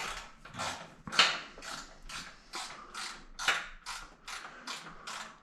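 Hand ratchet worked back and forth in quick, even strokes, about three to four clicking swings a second, backing a bolt out of the motorcycle's plastic fairing.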